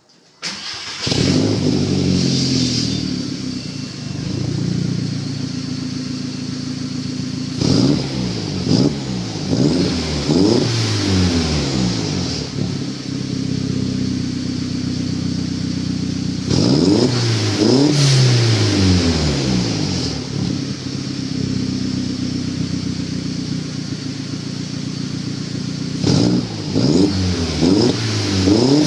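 Volkswagen New Beetle 1.8T turbocharged four-cylinder engine starting up about a second in, then idling through a 3-inch turbo-back exhaust with a Cherry Bomb muffler. It is revved several times in short blips, each rising and falling quickly, in clusters between stretches of steady idle.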